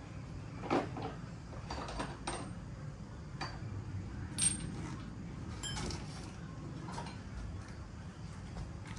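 Scattered knocks and clinks, some ringing briefly like metal, typical of tools and parts being handled during heavy truck tire work, over a low steady rumble. The two sharpest knocks come a little under a second in and about four and a half seconds in.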